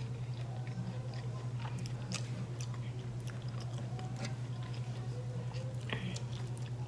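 Close mouth sounds of someone chewing fried chicken, with many small sharp clicks, while a metal fork works at chicken skewers in a glass dish. A steady low hum runs underneath.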